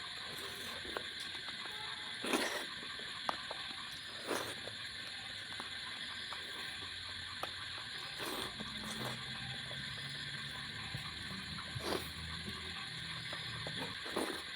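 A person eating fish curry and rice: scattered sharp mouth clicks and a few louder short chewing or smacking sounds, over a steady hiss.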